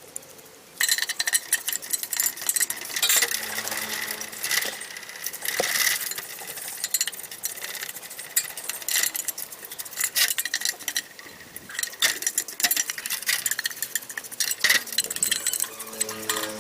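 Small metal engine parts and tools clinking and scraping in hand work, with many sharp clicks and a faint steady high tone underneath, starting about a second in.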